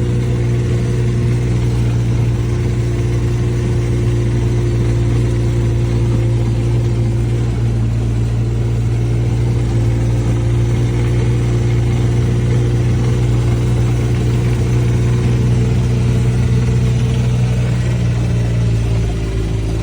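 Vehicle engine running steadily while driving. Its hum drops a little in pitch near the end.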